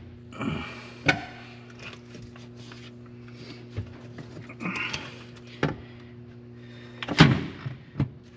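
Scattered knocks and clunks of metal parts being handled as an intake manifold is worked loose from an engine, the loudest a little past seven seconds in, with brief scraping between them. A steady low hum runs underneath.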